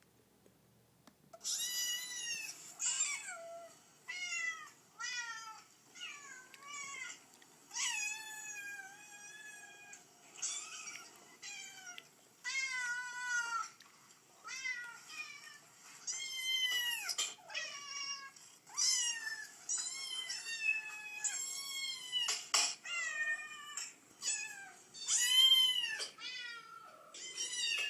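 Cats and kittens meowing over and over, about twenty high-pitched meows one after another, many bending up and down in pitch.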